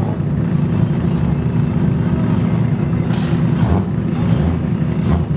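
Car engines running with a steady low rumble, with a few brief revs about three seconds in and again near the end.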